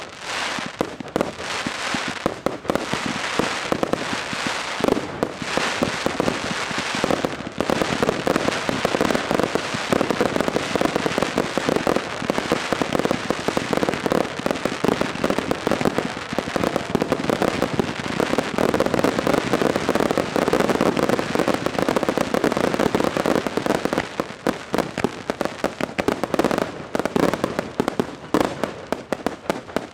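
Finale of a professional fireworks display: aerial shells and cakes bursting in quick succession with crackle. The separate bursts grow into a continuous barrage from about eight seconds in, and it stops suddenly at the very end.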